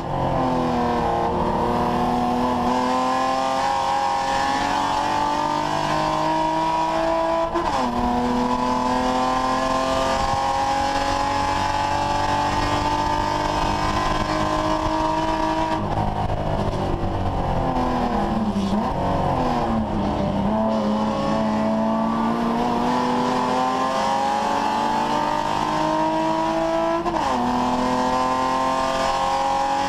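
BMW 3 Series race car's engine heard from inside the cockpit at full throttle, the revs climbing and then dropping sharply at an upshift about seven seconds in. Around the middle the revs fall away for a few seconds, then climb again, with another upshift near the end.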